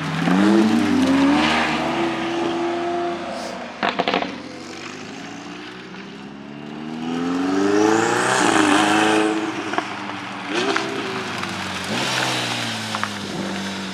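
Car engines revving hard as cars accelerate away, the pitch climbing steeply at the start and again about halfway through, over a steady idling engine note. Sharp exhaust pops crack out twice in between.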